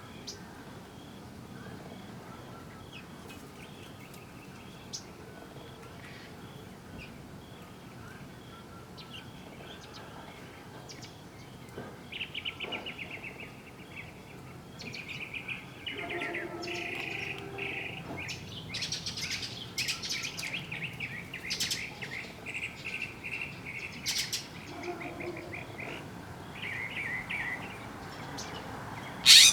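Birds chirping in quick pulsed runs of notes, starting partway through and going on almost to the end, with one sharp knock near the end.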